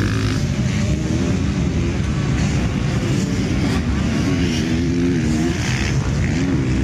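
Motocross bikes' engines racing on a dirt track, their pitch rising and falling as riders work the throttle and shift gears.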